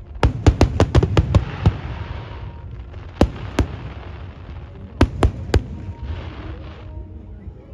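Aerial fireworks going off: a quick run of about eight sharp bangs in the first second and a half, followed by crackling and scattered bangs in twos and threes, over a steady low rumble.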